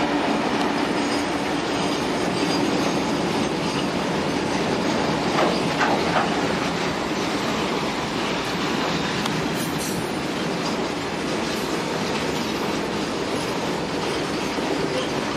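Freight train hauled by electric locomotives passing: steel wheels running on the rails in a loud, steady noise, with a brief louder clank about five and a half seconds in.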